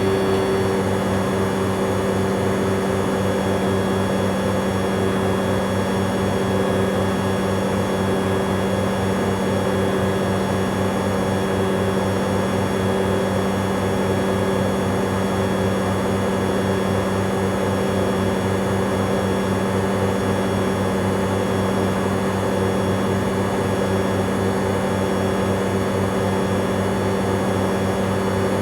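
Bauknecht Super Eco 7615 washing machine in its spin cycle, its inverter motor running at a steady high speed: a steady hum with several high-pitched whining tones above it.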